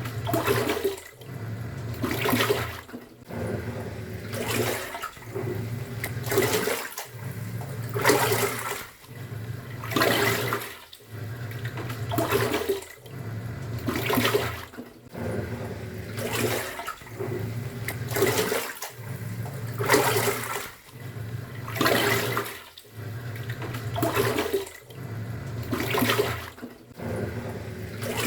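Top-loading pulsator washing machine in its wash cycle: the motor hums as the pulsator turns, stopping briefly and reversing about every two seconds, with water sloshing through the load at each turn.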